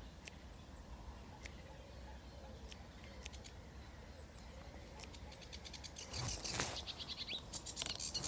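Faint wind noise, then about six seconds in a bird's rapid chattering song starts, fast repeated high notes, plausibly the sedge warbler in the reeds.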